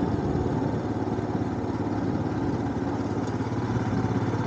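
Motorcycle engine running steadily at cruising speed while riding, with wind noise on a microphone worn inside the helmet.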